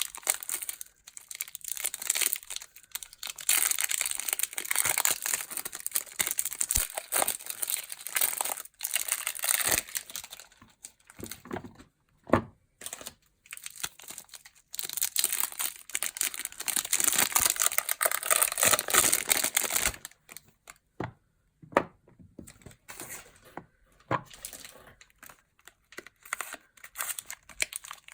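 Soap packaging crinkling and tearing as bars of soap are unwrapped by hand, in long crackly spells with short pauses and a few sharp clicks between.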